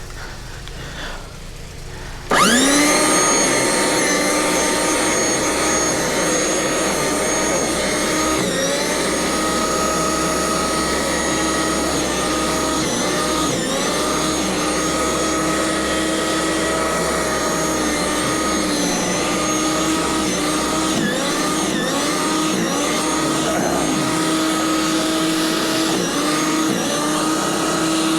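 A motorized snow blower starting abruptly about two seconds in, its whine rising quickly to speed and then running steadily, the pitch dipping briefly now and then as it takes on snow.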